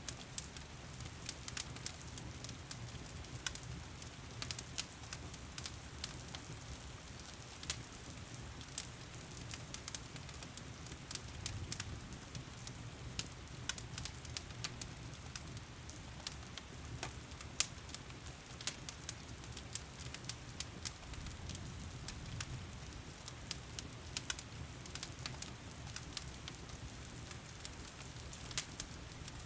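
Fireplace fire crackling, with frequent sharp, irregular pops, over the steady hiss of heavy rain and a low, even rumble.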